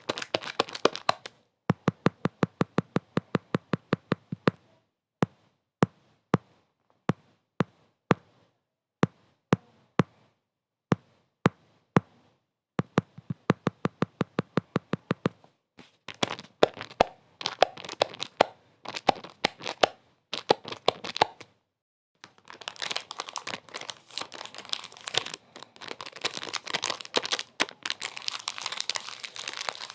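Crinkling, then a fast run of sharp clicks about ten a second, sparser single clicks, another fast run, and crinkling in short bursts that becomes continuous crinkling for the last third, with dead silence in the gaps.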